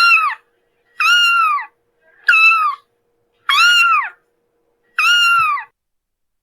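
A cat meowing five times in a row, about a second apart. Each meow rises briefly and then falls away in pitch.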